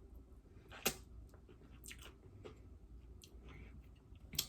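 A person chewing a mouthful of tostada, the crisp fried shell crunching in short sharp snaps. The loudest snap comes about a second in, with more near two seconds and near the end.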